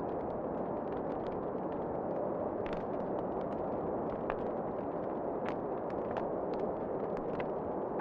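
Wood fire crackling in a fireplace, with scattered sharp pops and snaps over a steady rush of wind.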